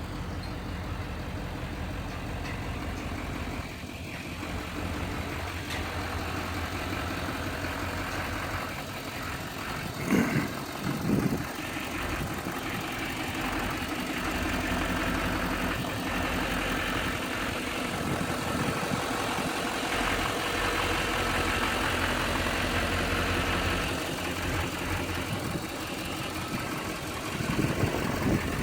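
Diesel pickup truck engine idling steadily, with two brief louder knocks about ten and eleven seconds in.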